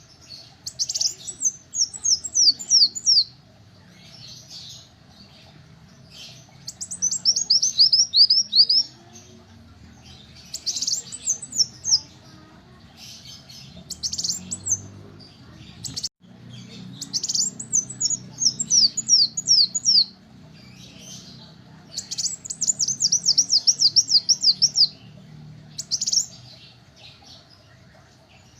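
A kolibri wulung sunbird singing in repeated bursts of rapid, high, falling notes. Each phrase lasts two to three seconds, with short pauses between them.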